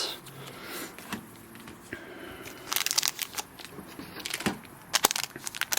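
Light handling of trading cards and their plastic packaging on a tabletop: soft crinkling with a cluster of sharp taps about three seconds in and a couple more near the end.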